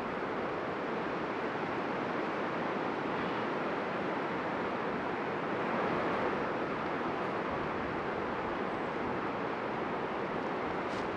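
Steady hum of many honeybees flying around an opened hive, blending into an even, unbroken buzz.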